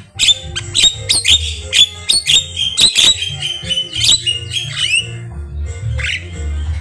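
Javan myna calling in a dense, rapid string of sharp chips, squawks and clicks, with a few downward-sliding whistles about two thirds through and a short lull before one last call near the end.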